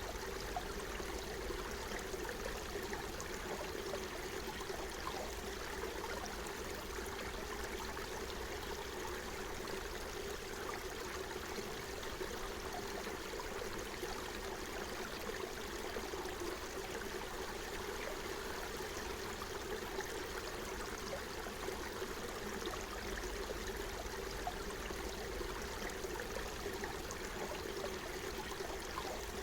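Small forest stream flowing and gurgling over stones, a steady rushing babble.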